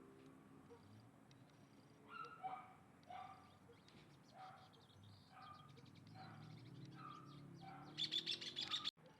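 Birds calling: short chirps repeated about once a second, then a louder, rapid, high-pitched chatter near the end that cuts off abruptly.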